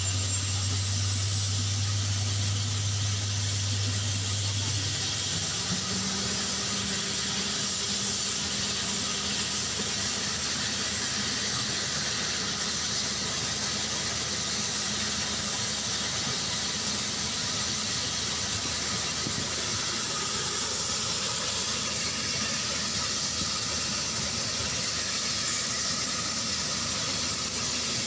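Black Hawk helicopter's turboshaft engines running with a steady turbine hiss. A low hum stops about five seconds in and a slightly higher hum takes over.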